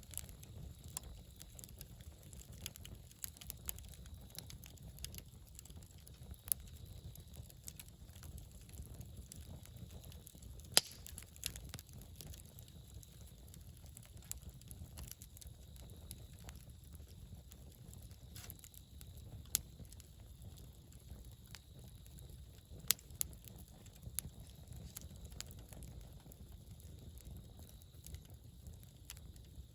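Campfire burning, with irregular sharp pops and crackles of burning wood over a low steady rumble; the loudest pops come at about 11, 19 and 23 seconds.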